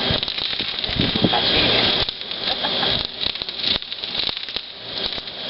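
Fireworks crackling: a dense, rapid run of small pops over a steady hiss.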